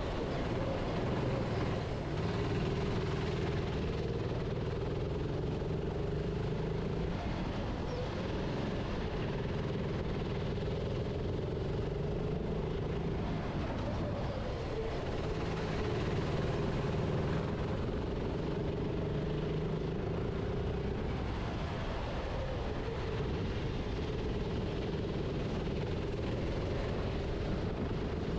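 Go-kart engine heard onboard, running hard. Its pitch drops and climbs back up every several seconds as the kart slows for corners and accelerates out.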